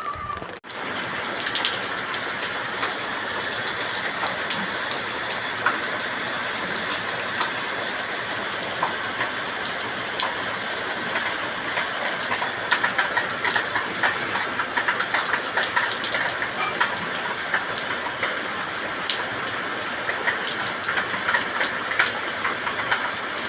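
Steady rain falling: a dense, even hiss with many separate drop ticks through it.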